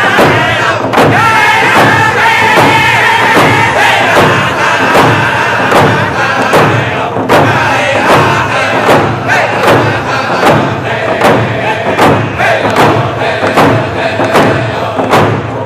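Round dance song: a group of singers chanting together over hand drums beaten in a steady pulse, about two beats a second.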